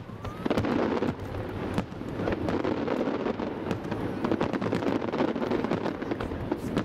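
Fireworks display: a rapid, continuous run of bangs and crackles from many shells bursting, over a steady rumble.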